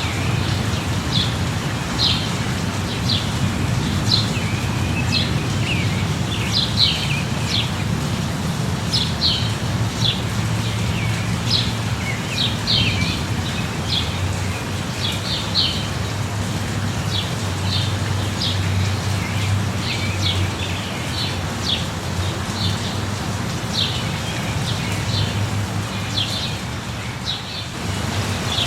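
Steady light rain with birds chirping, short high chirps coming about once a second, over a steady low rumble.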